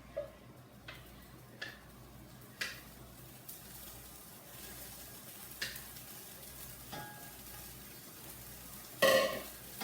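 Ketchup sizzling in a hot cooking pot as the barbecue sauce is started, with a few sharp clicks of kitchen utensils and a louder ringing clank near the end.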